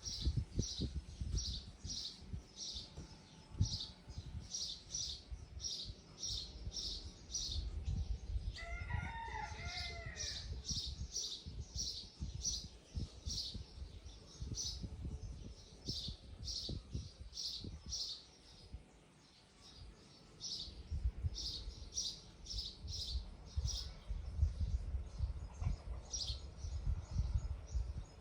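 A bird chirping over and over in short, high chirps, about two a second. A single longer, lower call sounds about nine seconds in. Low rumbling and knocks run underneath.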